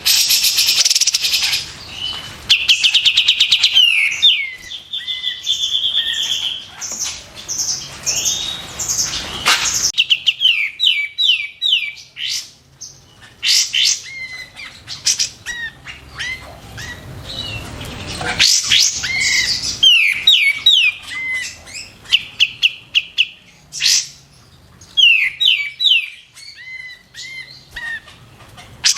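Kapas tembak, a bulbul of the cucak jenggot kind, in full song. It gives fast rattling trills and runs of loud, sharp down-slurred whistles, in bursts broken by short pauses.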